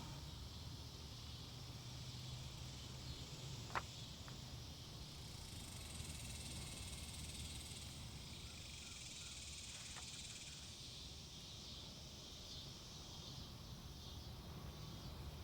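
Faint woodland ambience with a steady high chirring of insects that swells for a few seconds near the middle. A sharp click sounds about four seconds in and a fainter one about ten seconds in.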